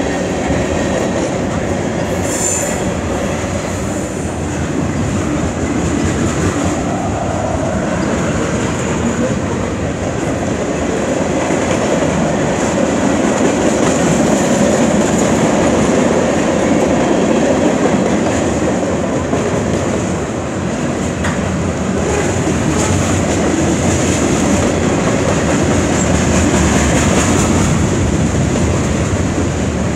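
A CN freight train's cars rolling steadily past, with a continuous rumble of steel wheels on rail.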